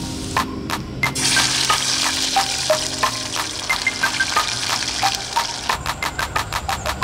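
Potatoes and onions sizzling in a frying pan on a portable gas camp stove, the sizzle coming in about a second in. A fast, regular ticking joins near the end.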